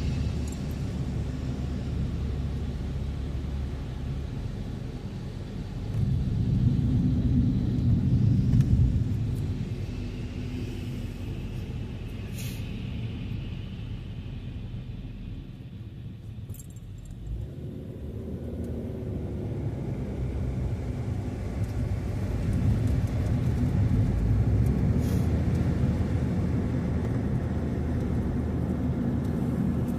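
Car driving, a steady low rumble of engine and tyres on the road that eases off about halfway through and builds up again.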